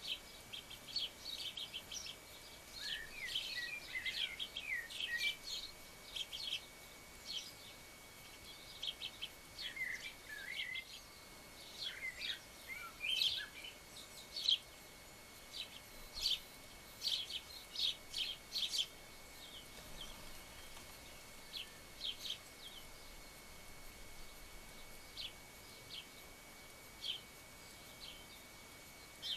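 Small garden birds chirping: many short, sharp high calls throughout, with a few brief warbling phrases about three, ten and thirteen seconds in, and the calls growing sparser in the second half.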